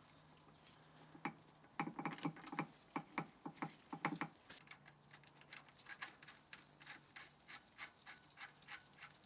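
A run of sharp clicks and taps, loudest and densest from about two to four seconds in, then settling into softer, even clicks at about three a second.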